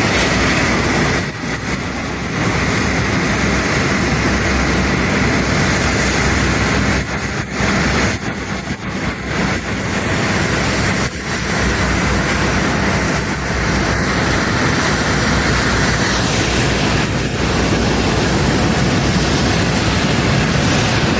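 Loud, steady jet aircraft noise: a continuous rush with a hissing band in the upper-middle range that dips briefly several times.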